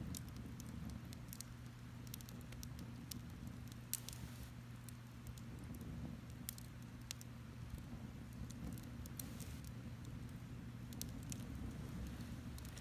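Wood fire crackling: scattered, irregular sharp pops and snaps, a few louder than the rest, over a faint steady low hum.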